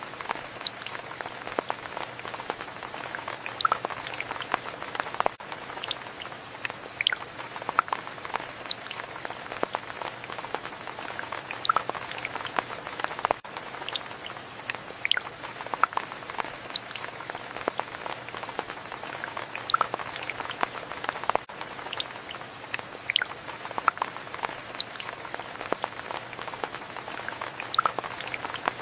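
Steady rain, with single drops striking close by at irregular moments over an even hiss.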